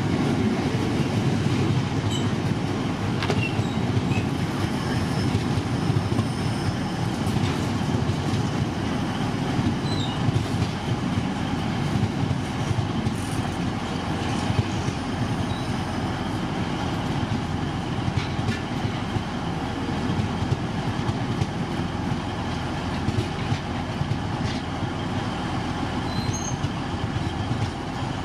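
Freight train of bogie tank wagons rolling past close by: a steady rumble of steel wheels on rail, with a few brief faint high squeals.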